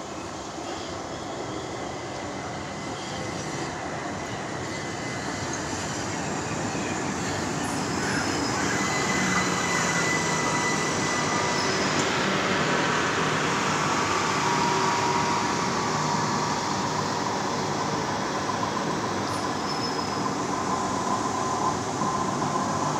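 Southern Class 377 electric multiple unit approaching and running past along the platform on curved track, its rumble building over the first several seconds and then staying steady. Thin, high squealing tones come in and out over it as the train passes.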